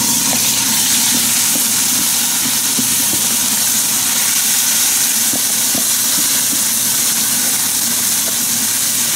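Marinated chicken pieces sizzling in hot oil in a pan, a loud, steady frying hiss that starts abruptly as the meat hits the oil.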